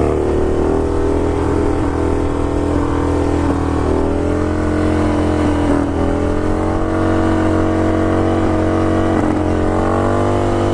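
2006 Harley-Davidson Dyna Low Rider's V-twin engine running under way on the road, its note holding fairly steady with small dips and rises in pitch, over a hiss of wind.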